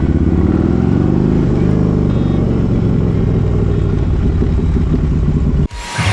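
Harley-Davidson Road Glide's V-twin engine running steadily while riding, its pitch shifting a little. It cuts off suddenly near the end, where rock music comes in.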